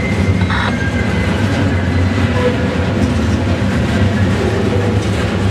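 CSX maintenance-of-way rail train rolling past, a loud steady rumble of wheels on the rails.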